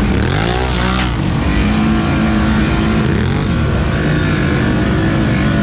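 ATV engine revving hard, its pitch swinging up and down a couple of times in the first second or so, then running on at steady high revs.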